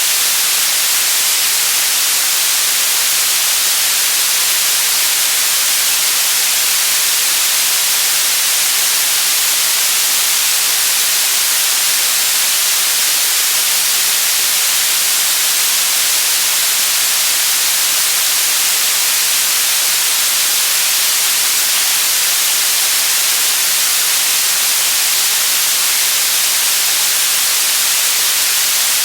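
Electronically generated white noise: a loud, steady hiss, strongest in the high range, with no change or variation.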